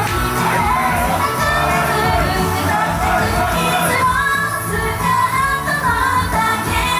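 Japanese idol pop song performed live, with female vocals singing over loud, steady music.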